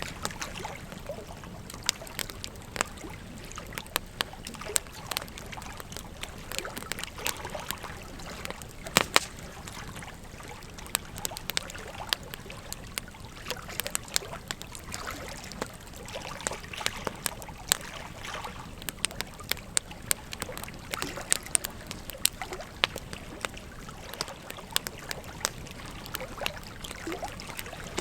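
Wood fire crackling, with irregular sharp snaps and pops, the loudest about nine seconds in, over the steady rush of a flowing river.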